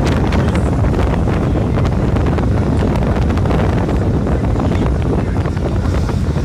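Wind rumbling steadily on the microphone on the deck of a moving boat.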